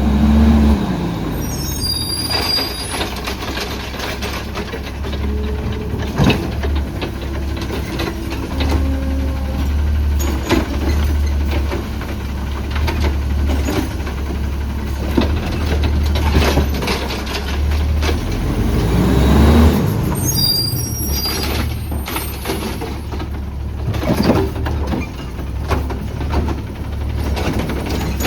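CNG Autocar ACX garbage truck with a Heil Rapid Rail side loader working its route: the engine runs with a low hum that rises and falls, air brakes squeal and hiss twice (about 2 seconds in and again about 20 seconds in), and clanks and knocks come throughout.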